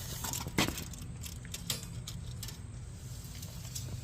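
A few light clicks and metallic rattles over a low steady hum.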